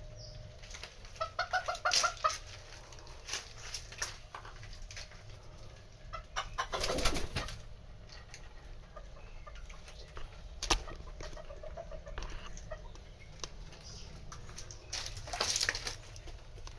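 Domestic birds feeding, with scattered short pecking-like clicks throughout. A short run of pulsed calls comes about a second in, with fainter ones later. Louder rustling bursts come around the middle and near the end.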